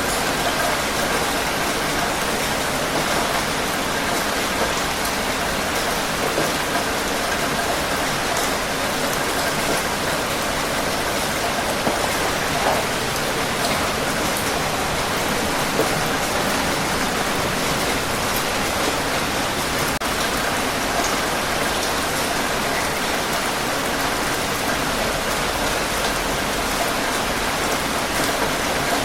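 Steady heavy rain: a dense, even wash of falling water with scattered individual drops ticking on a surface.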